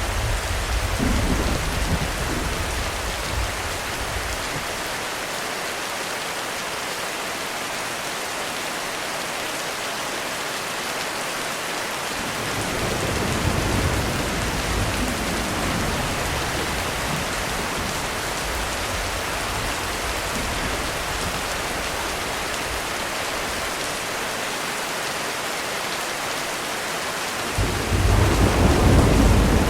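Heavy rain pouring steadily with rolling thunder: a deep rumble dying away in the first few seconds, another around the middle, and a louder peal building up near the end.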